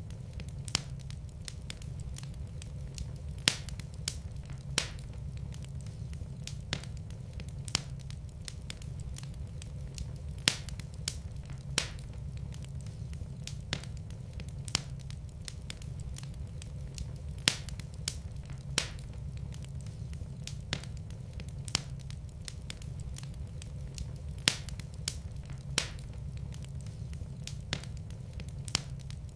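Fireplace fire crackling, with irregular sharp pops every second or so over a steady low rumble of the flames.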